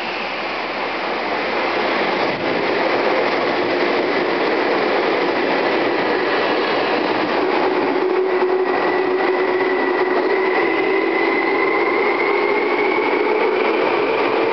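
Tokyu 8500 series electric train passing through a station at speed without stopping: loud steady rush and rumble of wheels on rail, building over the first few seconds as it comes alongside. Through the second half a whine rises steadily in pitch.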